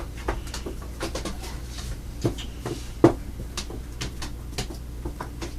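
Scattered light clicks and taps, with two louder knocks about two and three seconds in, over a faint low steady hum.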